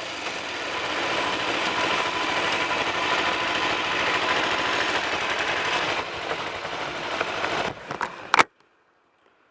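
Wind and road noise rushing over the microphone of a Kawasaki EL250 motorcycle on the move, a steady dense rush. A few sharp crackling knocks come near the end, then it cuts off suddenly to silence.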